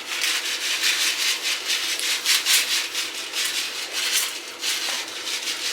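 Rice grains being stirred and scraped around in a rice cooker's inner pot: a quick run of rubbing, scraping strokes, several a second.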